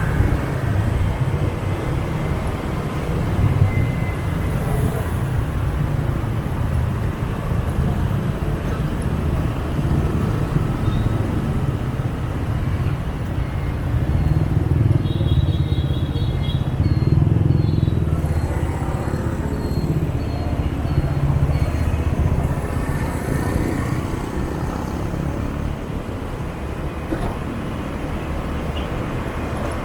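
Motor scooter traffic heard from a riding motorbike: a steady low engine hum with the mixed noise of surrounding motorbikes and cars. About halfway through comes a run of short, high beeps, evenly spaced.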